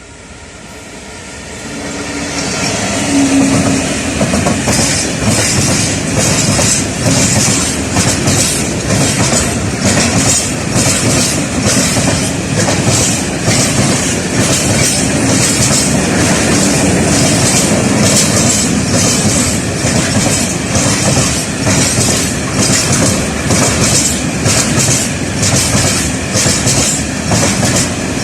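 A train passing close by, its sound rising over the first few seconds and then holding steady, with a regular clickety-clack of wheels running over rail joints.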